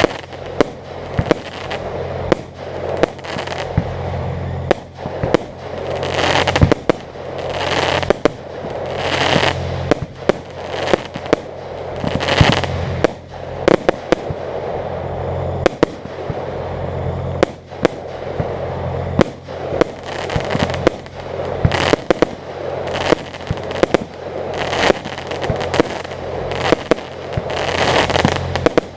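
Aerial fireworks display: shells bursting in quick succession with sharp bangs several times a second, and swells of crackling every few seconds. A steady low hum runs underneath.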